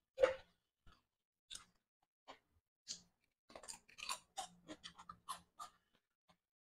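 Close-up eating sounds: chewing that opens with one louder smack, then a quick run of crisp crunches from about halfway as a raw cucumber is bitten and chewed.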